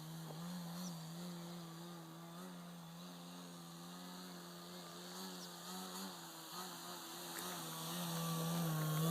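Electric-powered RC model airplane (a Seagull Edge 540 converted to electric) in flight: a steady propeller buzz that wavers slightly in pitch and grows louder near the end as the plane comes closer.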